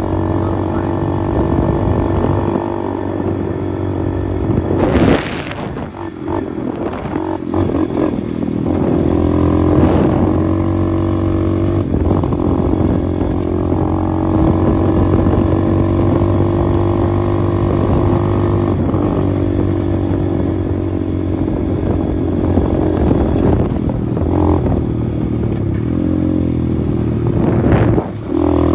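125cc pit bike engine running steadily under way, easing off about five seconds in and picking back up a few seconds later. A few sharp knocks and rattles from the bike over rough ground.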